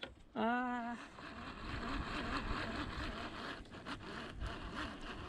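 A short voiced exclamation about half a second in, then steady wind and water noise.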